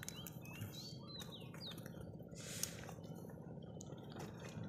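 A small bird chirping, a few short whistles bending up and down in the first two seconds, over a steady low hum.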